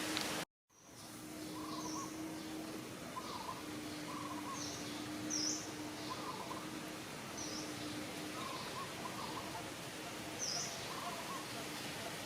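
Short, high chirping calls repeating about once a second over a steady outdoor hiss, after an abrupt cut to silence about half a second in.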